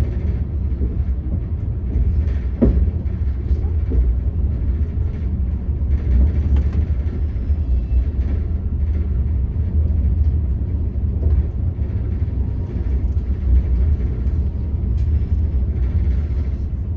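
Passenger train coach running on the rails, heard from inside the carriage: a steady heavy low rumble with a few brief knocks.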